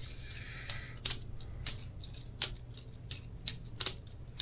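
Boker Plus balisong butterfly knife being flipped: about a dozen sharp metallic clicks and clacks at an irregular pace as the handles and blade swing round and strike each other. A faint steady hum runs underneath.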